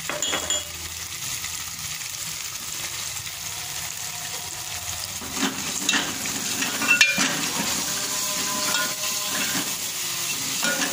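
Tomato masala sizzling in hot oil in an aluminium pot while a steel ladle stirs it. Short scrapes and clinks of the ladle against the pot come through the steady sizzle, most of them about five to seven seconds in.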